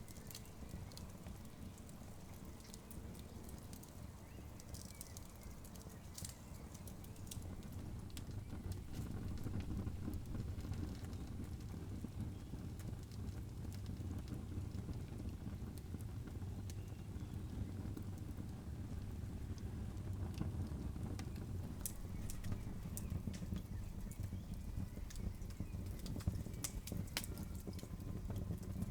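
Wood campfire crackling, with irregular sharp pops and snaps over a steady low rumble that grows a little louder after about eight seconds.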